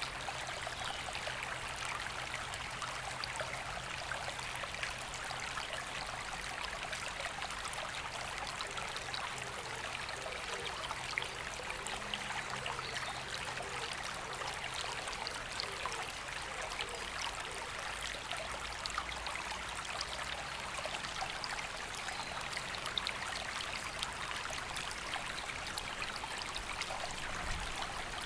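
River water flowing with a steady, continuous rush.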